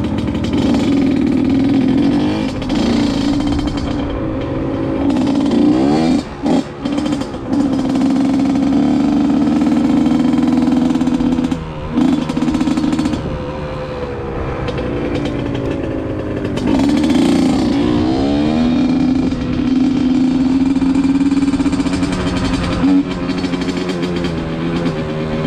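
Honda CR85R's two-stroke single-cylinder engine under way on a ride, its pitch climbing and falling with the throttle. The engine note cuts off briefly about six seconds in and again around twelve seconds, then sweeps back up through the revs.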